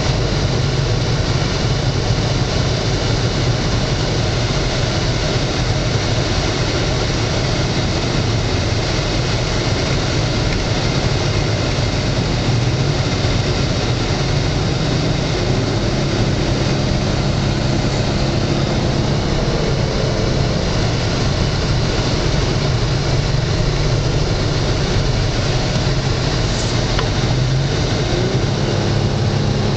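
A Dodge Charger's 3.5-litre V6 and its road noise, heard from inside the cabin while cruising at highway speed. The engine note climbs a little around the middle and again near the end.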